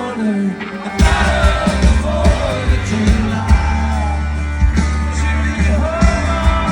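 Live country band playing, with a lead vocal over bass guitar and drums; the bass and drums drop back briefly and the full band comes back in about a second in.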